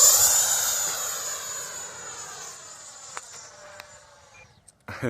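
An 80mm electric ducted fan on a Freewing T-33 RC jet whines as the jet passes by on a low pass. The whine drops in pitch and fades away over about four and a half seconds.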